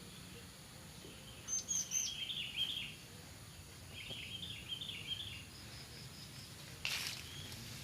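A small bird chirping in two quick runs of short, high notes, with a brief rustle near the end.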